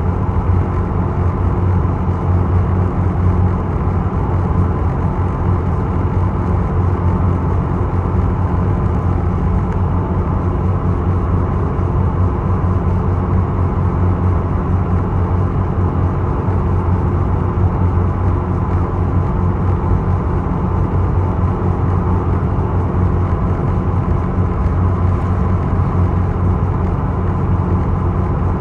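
Ferry's diesel engine droning steadily, heard on board, with a constant low hum and a few steady higher tones over a wash of noise.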